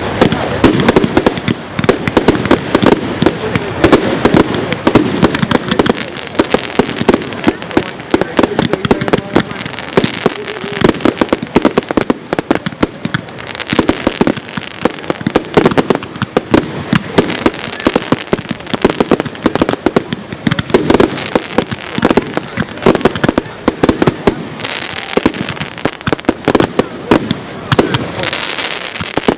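Aerial fireworks display: a dense, continuous run of bangs and crackling from shells and rockets bursting overhead, with hardly a gap.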